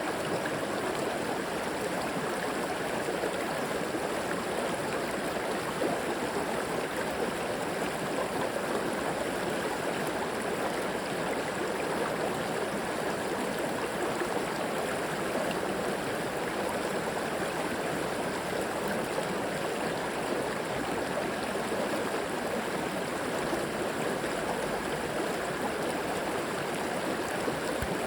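River water flowing over rocks: a steady, even rush and gurgle.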